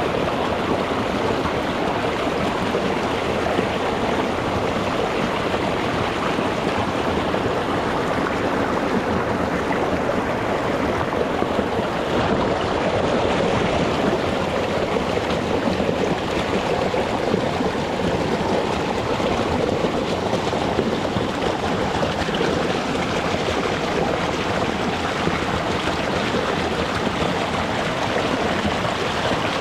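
Shallow, rocky mountain stream flowing over stones, a steady rushing and babbling of water with no breaks.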